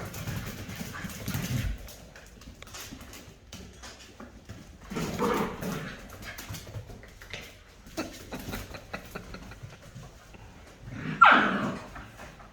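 Rottweiler puppies playing and scuffling, with scattered scrabbling clicks, a vocal call about five seconds in and a loud, high call that falls in pitch near the end.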